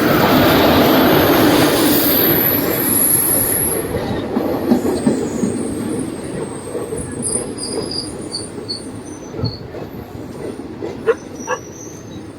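An Indian Railways express train hauled by a WAP-7 electric locomotive rolls past, its wheels rumbling on the rails. It is loudest in the first few seconds and then slowly fades. High-pitched wheel squeal comes early and again partway through, and a few sharp clicks from the wheels near the end.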